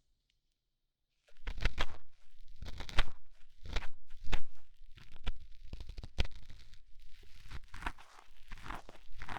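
Ear-cleaning ASMR: an ear-cleaning tool scraping and rustling against the ear, making close, irregular scratchy crackles that start about a second in after a short silence.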